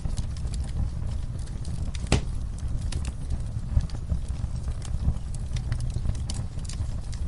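Fire crackling in a fireplace: a steady low rumble of flames with frequent sharp, irregular pops and crackles, one louder pop about two seconds in.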